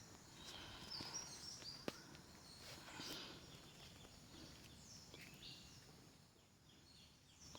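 Faint bird chirps and short calls, several scattered through, over a quiet outdoor background haze, with a single sharp click about two seconds in.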